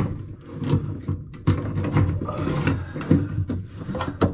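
Irregular clunks, clicks and rubbing of a fuel pump assembly being handled and worked down into a car's fuel tank.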